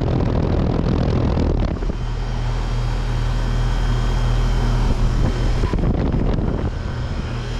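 2011 Luxaire LX Series 3-ton heat pump running in heat mode: its Bristol reciprocating compressor hums steadily under the rush of the outdoor fan. A louder rushing noise swells at the start and again around six seconds in.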